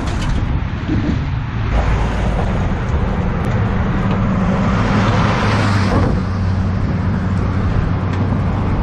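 Steady road traffic from cars going by, with a low engine hum under it and one vehicle swelling past about five to six seconds in.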